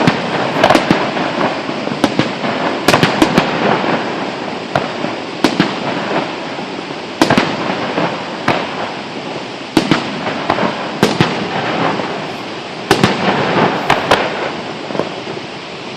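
Fireworks display: a string of sharp bangs, sometimes several in quick succession, over continuous crackling.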